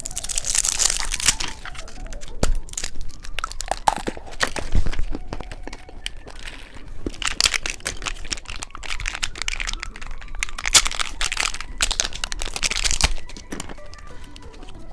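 Plastic candy wrappers crinkling and tearing open, with many sharp cracks and snaps.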